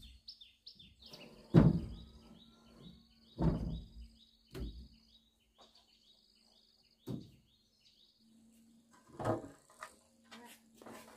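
A small bird calling in a fast series of short, high, downward-sliding chirps through the first half. Several heavy thumps sound through it, the loudest about a second and a half in.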